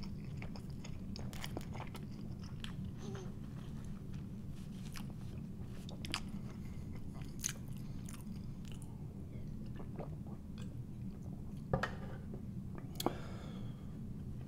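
A person chewing a mouthful of bacon cheeseburger with closed lips, close to the microphone: scattered soft wet clicks and smacks over a steady low hum, with a couple of louder clicks near the end.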